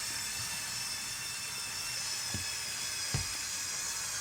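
Lego Technic tractor's electric motors and gearing whining steadily under load as it pulls the weighted sled. Two soft thumps come a little past the middle.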